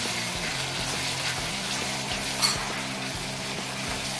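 Chopped tomato, capsicum and onion sizzling in oil in a pan, stirred with a wooden spatula, with one sharp tap about two and a half seconds in.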